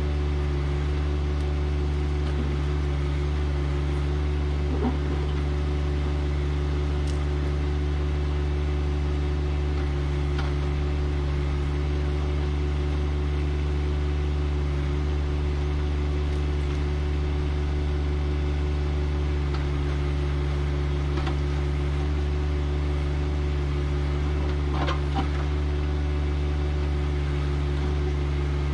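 John Deere 1025R compact tractor's three-cylinder diesel engine running steadily at a constant speed, with a few faint knocks.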